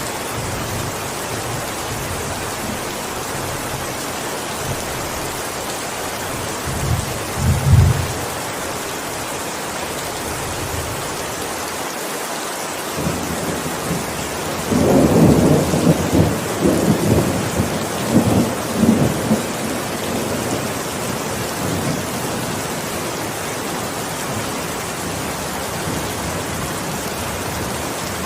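Steady heavy rain with thunder: a short low rumble about seven seconds in, then a louder rolling peal with cracks from about fourteen to nineteen seconds.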